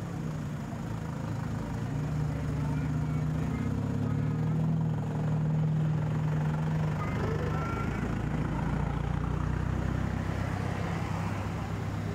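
A vehicle engine idling, a steady low hum that swells a little in the middle and then eases.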